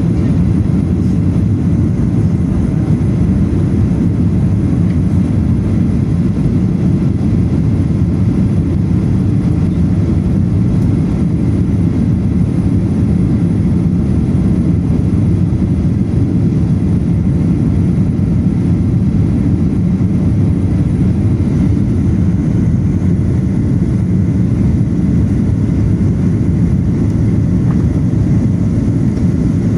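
Steady, loud, low drone of an airplane in flight, heard from inside the passenger cabin: engine and airflow noise that does not change.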